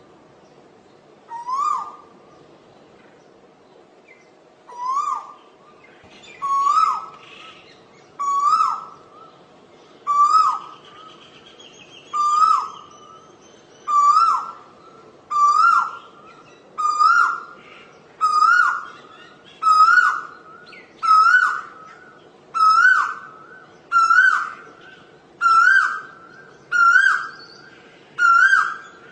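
Asian koel calling its repeated rising 'ko-el' note over and over, about seventeen times. The calls come faster, louder and higher in pitch as the series goes on.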